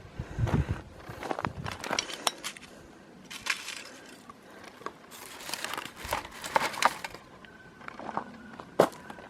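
Irregular crinkling and crunching of dry litter, plastic and paper, being handled and stuffed into a trash bag. Wind buffets the microphone in the first second.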